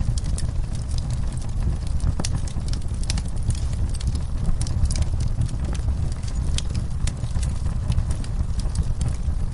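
Wood fire burning in a fireplace, with a steady low rumble and irregular sharp crackles and pops.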